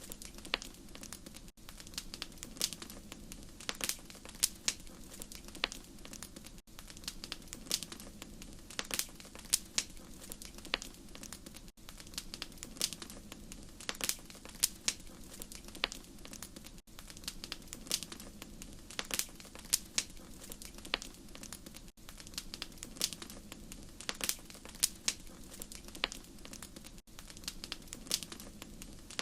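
Wood fire crackling: irregular sharp pops and snaps over a low steady bed of flame noise, with a brief dip in level about every five seconds.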